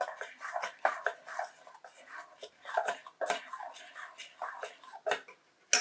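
Spoon stirring and scraping a sauce around a pot: a busy run of irregular clinks and scrapes, with one sharp, louder clink just before the end.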